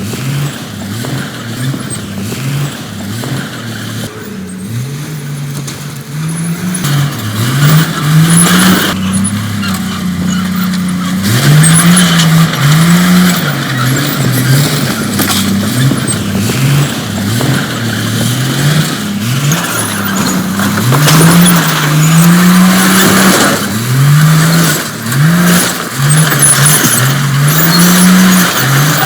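A bulldozer's diesel engine revving up and dropping back over and over, its pitch rising in repeated sweeps every second or two as it works under load.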